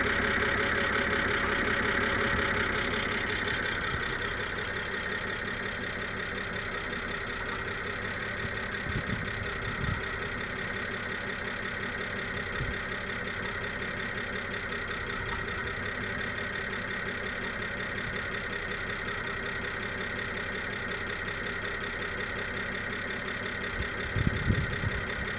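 BMW E92 325i's straight-six engine idling, with a steady high-pitched screech over the running. The owner takes the screech, together with a logged combustion misfire, for a sign of an air leak. A few brief bumps come about ten seconds in and near the end.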